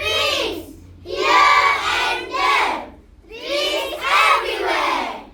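A group of schoolchildren declaiming lines of a poem together in unison, loudly, in three phrases: a short one at the start, then two longer ones.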